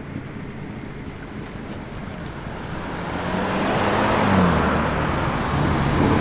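A car's engine approaching at low speed, its low steady note getting louder over the last few seconds, with a brief dip in pitch as it eases off.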